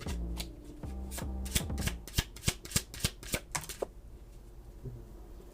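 A deck of tarot cards being shuffled by hand: a quick, uneven run of card slaps and flicks that stops a little under four seconds in.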